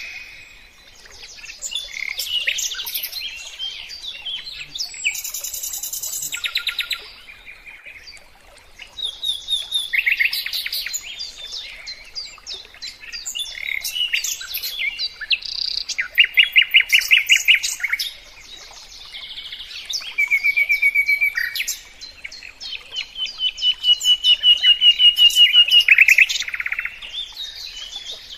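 Songbird singing: a run of varied phrases, each a quick series of repeated chirps or trilled notes, with short pauses between phrases.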